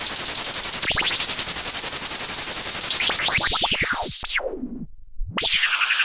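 Buzzy synthesizer tone through the Patching Panda Vibrazum Mk2 triple resonant filter, its several resonant peaks sweeping. About three seconds in the peaks glide steeply down and the filter closes almost to silence, then it opens again with a bright sweep near the end.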